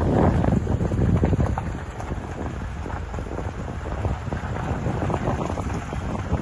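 Loud, uneven wind buffeting on the microphone over a steady rushing noise; it starts abruptly.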